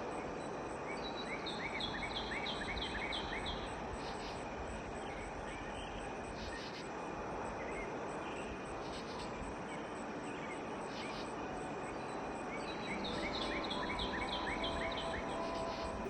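Outdoor nature ambience: a steady hiss of background noise, with a run of seven or eight quick high chirps about a second in and another run near the end.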